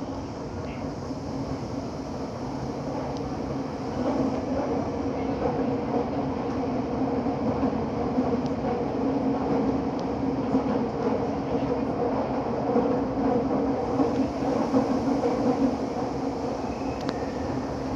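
Minatomirai Line limited express train running, heard from inside the passenger car, with a steady hum under the running noise. The noise grows louder about four seconds in and eases slightly near the end.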